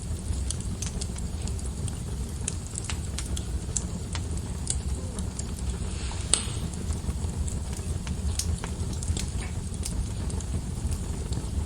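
Wood fire burning in a fireplace: a steady low rumble of flames with irregular crackles and snaps of burning wood, one sharper pop about six seconds in.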